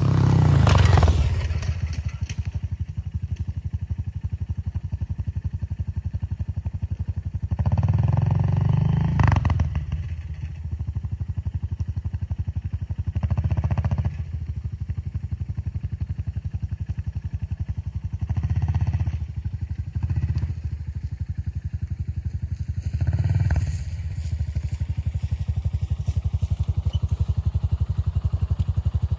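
Honda CRF125F dirt bike's small four-stroke single-cylinder engine running steadily, swelling louder with throttle several times, about a second in and then every few seconds.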